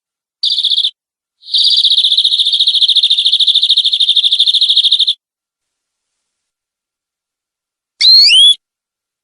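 Domestic canary singing a lure song: a short trill, then a long, rapid, rolling trill lasting about three and a half seconds, and near the end a brief swooping whistled note.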